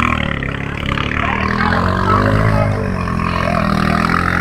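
Motocross motorcycle engines running, one of them revving up and easing off again about two seconds in.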